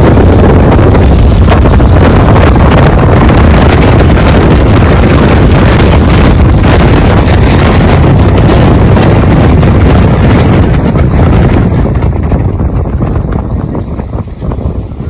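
Heavy wind buffeting the microphone of a camera riding in the open bed of a moving pickup truck, mixed with the truck's road noise. It dies down over the last few seconds.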